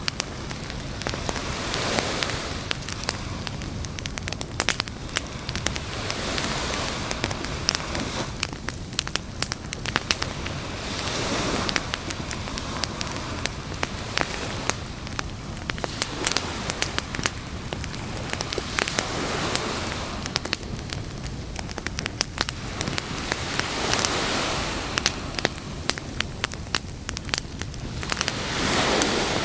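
Campfire crackling and popping steadily, with ocean waves washing in and receding every few seconds behind it.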